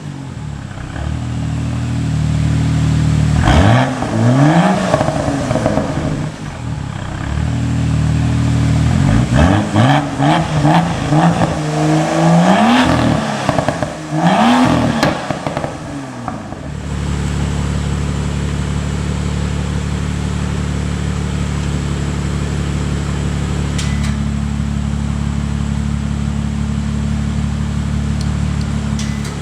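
BMW M2 F87's turbocharged straight-six, breathing through the BMW performance exhaust, revved several times, the pitch rising and falling quickly, with crackles as the revs come down. It then settles into a steady, loud idle for the second half.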